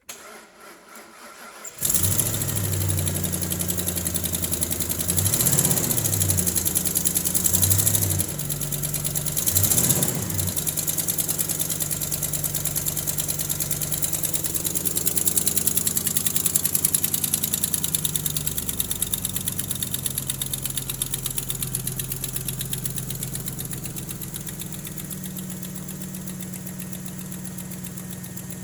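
2006 Ford F150 engine cranking on the starter for under two seconds, catching, and running. It is revved briefly twice in the first ten seconds, then settles into a steady idle.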